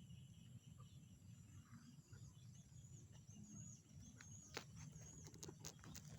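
Faint night-time chorus of frogs calling, with a steady high trill, a run of short repeated high chirps, and several sharp clicks over the last couple of seconds, all over a low rumble.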